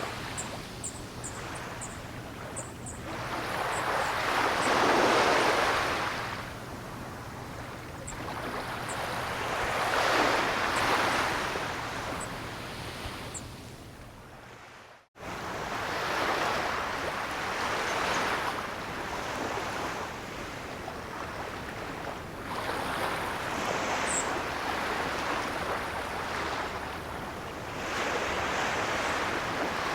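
Ocean waves breaking and washing on the shore, swelling and ebbing every five or six seconds. The sound fades and cuts out for an instant about halfway through, then resumes.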